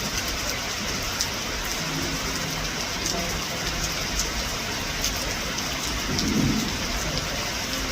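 Steady rain falling, a constant hiss of water, with a brief louder low sound about six seconds in.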